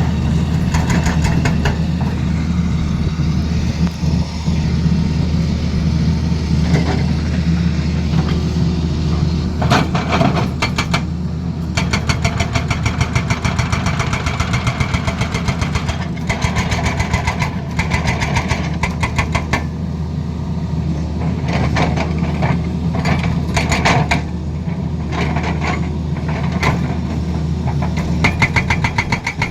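Tata Hitachi excavator's diesel engine running steadily, with long stretches of rapid knocking from about ten seconds in.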